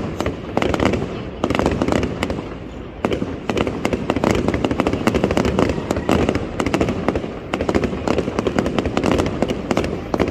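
Fireworks display with a dense run of rapid bangs and crackles over a low rumble, thinning briefly about two to three seconds in before picking up again.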